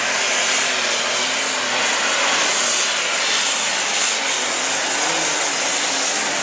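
Super stock pulling tractor's engine running flat out under load on a pull, with a steady high whine from its turbochargers over the engine noise.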